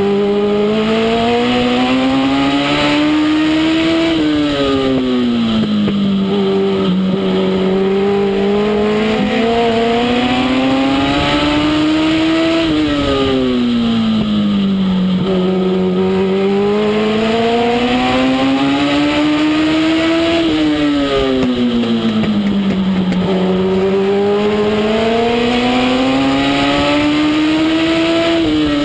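Legend race car engine at racing speed, its pitch climbing steadily and then dropping sharply when the throttle is lifted, repeating about every eight seconds as the car laps a short oval.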